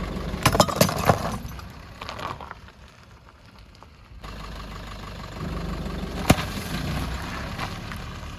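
A car's engine running slowly with a few sharp cracks, a cluster about a second in and one louder crack near the middle, as earthen clay pots break under the tyres.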